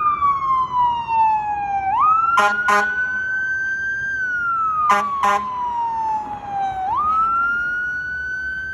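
Fire engine siren wailing, its pitch sweeping slowly down and back up, with two pairs of short horn blasts over it, the first about two and a half seconds in and the second about five seconds in.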